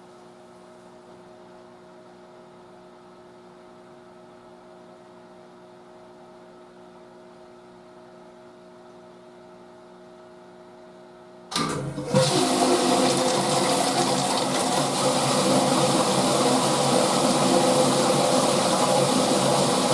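Drum-type washing machine humming steadily, then about 11 seconds in water suddenly starts rushing into the machine, loud and steady for the rest.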